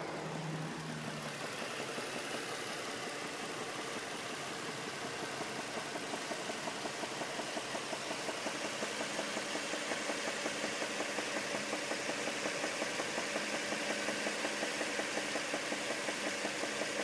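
2004 Infiniti G35 coupe's 3.5-litre V6 running, with a regular pulsing knock or tick a few times a second that grows a little louder. It is the unidentified weird noise the owner is asking about.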